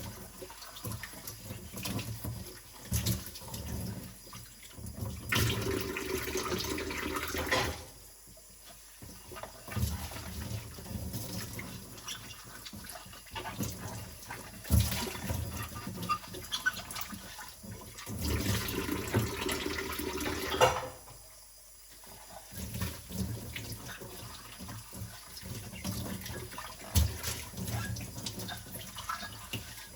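Dishes being washed by hand in a sink: tap water running and splashing, with frequent clinks and knocks of dishes. The flow gets steadier and louder twice, for a couple of seconds each time, and each time drops away briefly afterwards.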